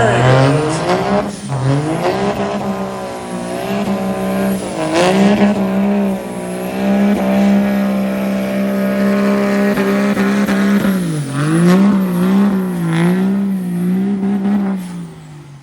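Stock diesel pickup truck engine at full throttle, pulling a weighted sled. The revs climb at the start, hold steady, waver up and down a few times late in the pass, then drop away as the throttle is let off near the end.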